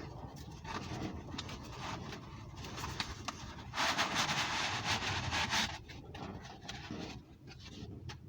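Packaging being handled: light knocks and scraping, with a louder stretch of rustling about four seconds in that lasts around two seconds.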